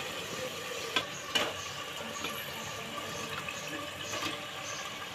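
Raw chicken pieces sizzling as they go into masala paste frying in hot oil in a pot, with two light knocks about a second in.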